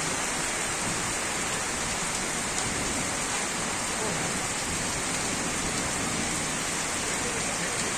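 Heavy rain pouring down in a steady, even hiss, splashing onto waterlogged ground.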